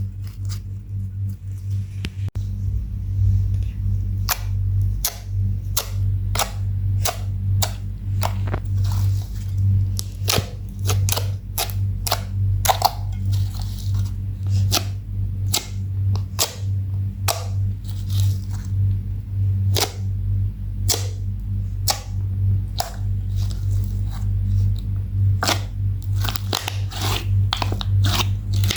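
Slime being squeezed and worked by hand, giving irregular sharp pops and clicks, about one or two a second, as air pockets burst. A steady low hum runs underneath.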